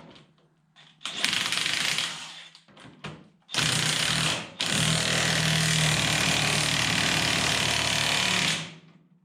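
Impact wrench run in three goes, two short bursts and then one long steady run of about four seconds, tightening the clamp bolt on a tractor's steering arm until the clamp is tight.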